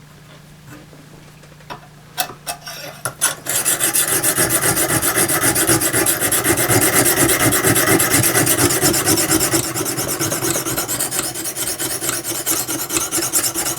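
Oiled coarse stone of a Lansky guided sharpening system stroked rapidly back and forth along a steel saw blade's edge, making a continuous scraping rasp. A few light clicks come about two seconds in, and the strokes start about three and a half seconds in.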